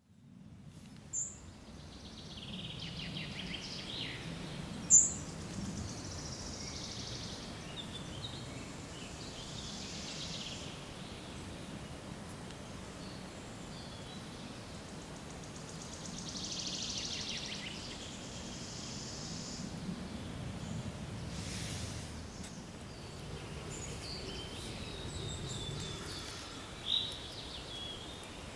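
Forest ambience: songbirds calling and singing here and there over a steady background hiss, fading in at the start. A few sharp chirps stand out, the loudest about five seconds in.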